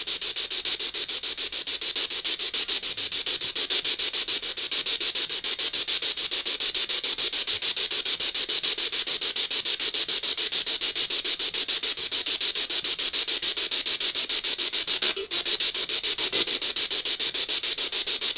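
Ghost-box radio scanner sweeping through stations, giving steady static chopped into rapid even pulses many times a second, with a brief dropout about fifteen seconds in.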